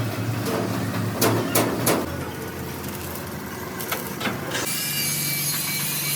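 Workshop noise: several sharp knocks, then a steady hiss with a low hum that starts about three-quarters of the way through.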